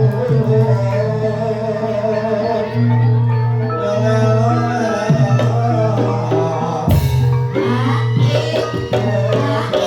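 Banyumas gamelan music accompanying ebeg, with struck metal mallet instruments and a wavering sung melody, turning brighter about seven seconds in.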